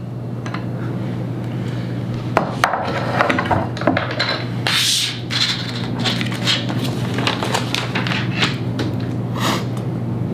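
Parts of a dual monitor mount being handled and fitted together: scattered knocks and clicks, a short rubbing scrape about five seconds in, over a steady low hum.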